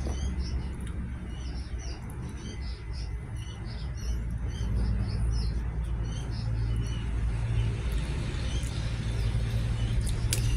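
Small birds chirping in quick, repeated short calls over a steady low rumble, with a couple of sharp clicks near the end.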